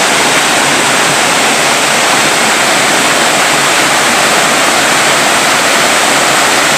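Nunobiki Falls' Ondaki waterfall pouring into its basin: a loud, steady rush of falling water.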